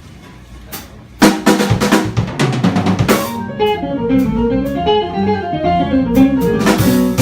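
A live jazz band of drum kit, electric bass, guitar and piano starts a song. After a quiet first second, drum hits come in abruptly, and a tangle of piano and guitar notes follows over the bass and drums.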